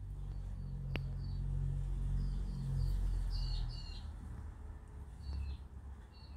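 Small birds chirping in short repeated calls, in clusters, over a low rumble that is loudest for the first four seconds and then eases. One sharp click about a second in.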